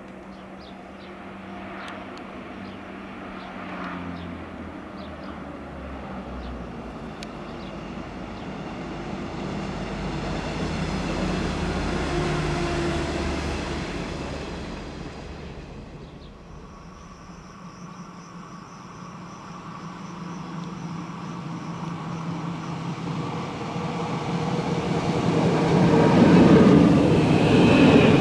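A Renfe electric multiple-unit train running along the tracks, growing louder and then fading away. A second Renfe electric train then comes along the platform and passes close by, with a thin high whine over the rumble, loudest near the end.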